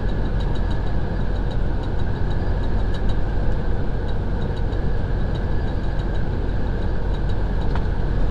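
Semi truck's diesel engine running steadily with a constant drone of road noise, heard from inside the cab while driving.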